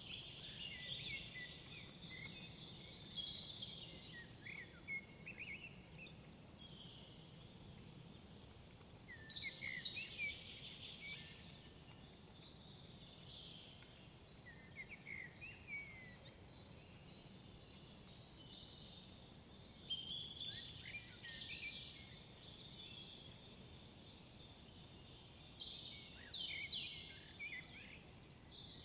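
Woodland songbirds singing, short phrases of quick chirps and trills repeated every few seconds, some ending in a high rising trill, over a faint steady forest background.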